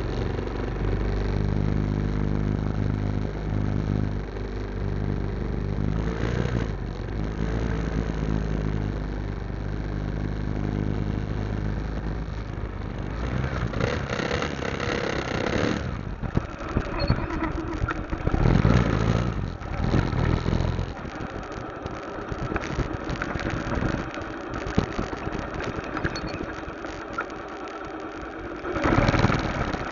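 Motorcycle engine idling steadily for about the first dozen seconds, then giving way to an uneven rushing noise with several loud gusts.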